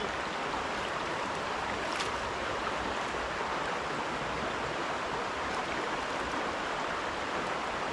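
River water flowing steadily, with a single faint tick about two seconds in.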